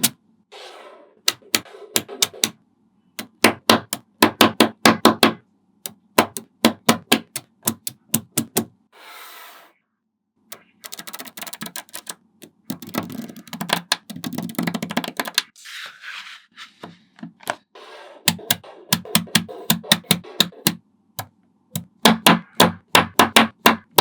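Small magnetic balls clicking sharply into place one after another in quick runs, with stretches of denser rattling as loose balls roll and knock together.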